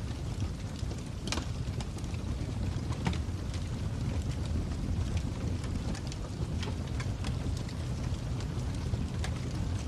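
Fire crackling: a steady low rumble of burning with irregular sharp pops and snaps, the loudest about a second in and another about three seconds in.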